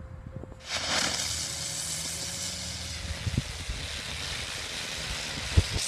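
Firework going off with a steady spitting hiss that starts suddenly about a second in and lasts about five seconds, with a sharp bang near the end.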